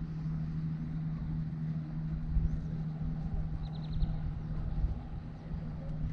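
Ultralight aircraft engine running steadily at a low idle, with a few short bird chirps just under four seconds in.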